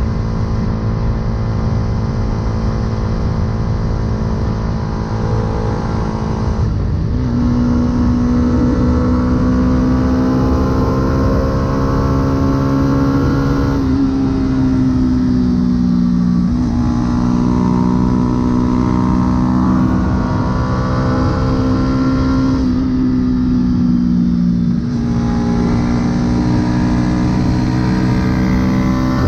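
Yamaha YZF-R125's single-cylinder four-stroke engine running through a full aftermarket exhaust while riding. The note holds fairly steady, then steps and dips in pitch a handful of times, as with gear changes and throttle changes.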